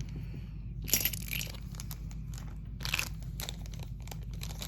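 Plastic packaging crinkling and crackling as a bead packet is handled and opened by hand, with a louder burst about a second in and another about three seconds in.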